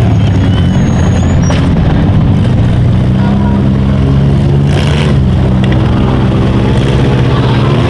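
Small-car engines running hard at steady revs in a demolition derby, with two sudden knocks, about one and a half and five seconds in, that fit cars colliding.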